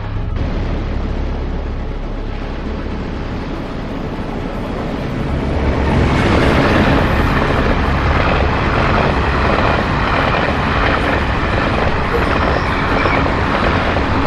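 Passenger train running past on the line, a steady rumble of wheels on rails that grows louder about six seconds in as it passes close by.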